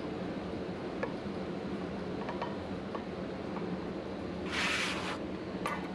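A few faint clicks and a short hiss over a steady low hum, as the drum sander's drum is lowered onto the board.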